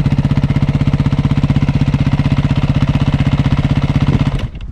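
Beta 390 single-cylinder four-stroke dirt bike engine running steadily at idle with an even, rapid pulse, cutting off near the end.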